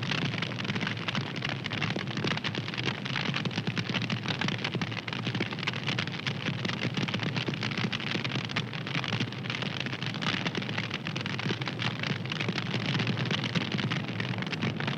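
Wood fire crackling steadily: a dense, continuous run of small pops and snaps over a soft hiss.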